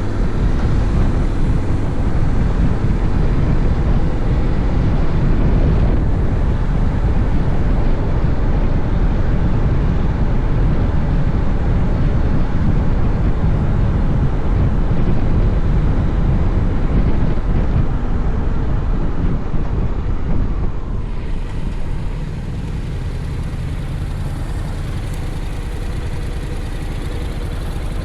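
Honda X-ADV's parallel-twin engine running under way, with wind rushing over the microphone. About 21 seconds in, the wind noise falls away as the bike slows, leaving the engine running more quietly.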